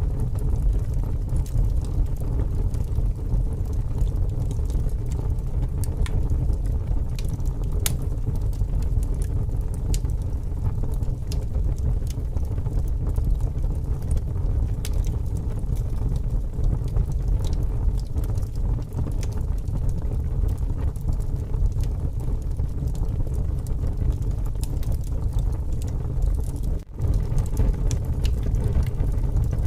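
Wood fire burning with scattered crackles and pops, over a steady low rumble of strong wind.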